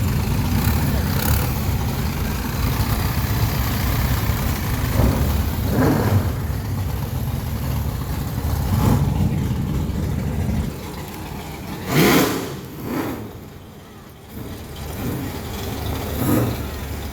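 A car engine running with a heavy low rumble that drops off about two-thirds of the way through, followed by two short, louder sounds.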